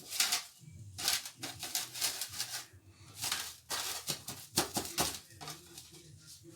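Plastic film, likely cling wrap, being handled, crinkling and rustling in irregular bursts with short pauses between them.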